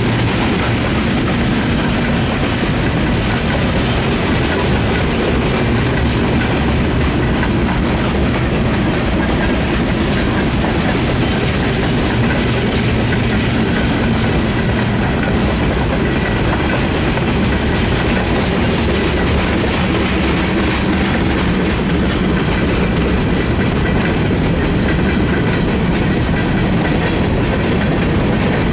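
Freight train rolling past: boxcars and covered hopper cars rumbling along steadily, their wheels clattering over the rail joints.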